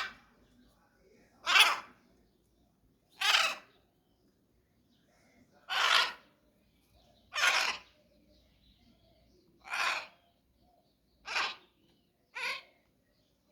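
A bird giving harsh, caw-like calls, about seven in a row spaced one to two seconds apart, growing fainter toward the end.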